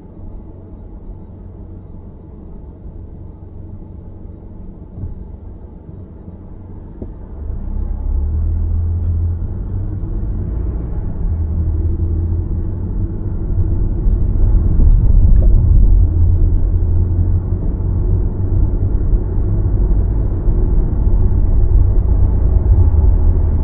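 Low road rumble of a car driving, growing louder from about seven seconds in and again about halfway through as it picks up speed.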